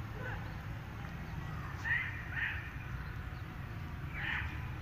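Outdoor ambience: a steady low rumble with a few short bird calls, twice about two seconds in and once near the end.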